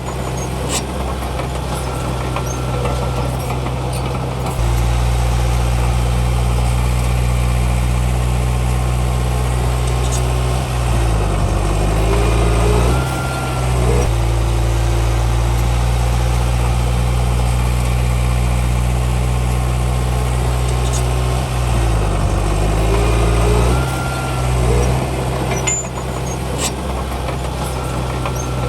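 Heavy diesel engine of earthmoving machinery running steadily, louder from about five seconds in. Its pitch dips and recovers twice, about eleven and twenty-two seconds in.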